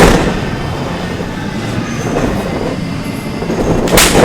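Pro wrestling strikes landing: a sharp smack at the start and another about four seconds in, with a steady rumbling noise between.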